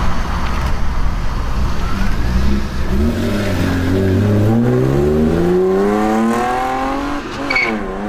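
BMW E36 engine accelerating hard, its pitch climbing steadily for about four seconds, then dropping sharply at a gear shift near the end, with a brief high chirp as it settles to a steady lower note.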